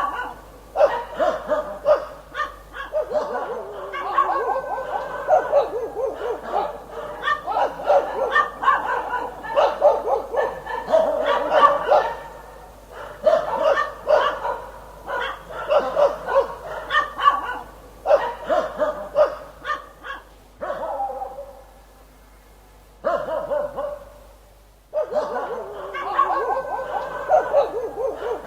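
Dog barking in rapid, repeated runs of short barks, with two brief lulls about three-quarters of the way through.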